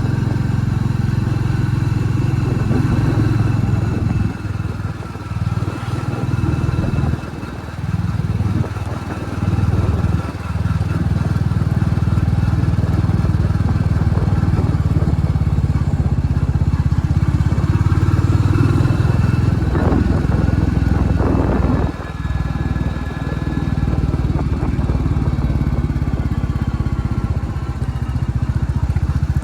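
Royal Enfield Classic 350 Reborn's single-cylinder engine running, its sound dropping briefly several times in the first ten seconds as the throttle comes off, and rising in pitch a little past two-thirds of the way through before dipping again.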